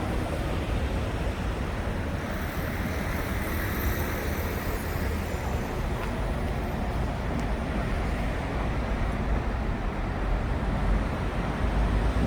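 Steady road traffic noise, a constant low rumble with no distinct events.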